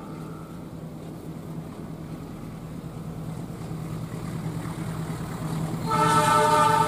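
Diesel locomotive approaching with its engine humming low and steadily, growing louder. About six seconds in, the locomotive's horn sounds loudly as a chord of several steady tones.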